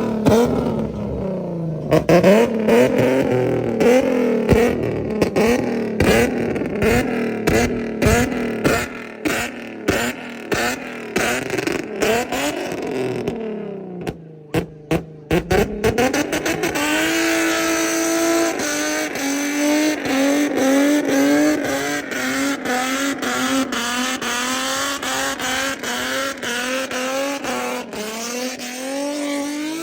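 Car engine revving hard, its pitch swinging up and down again and again, then held high and fairly steady through the second half, as at a car meet where cars are sliding.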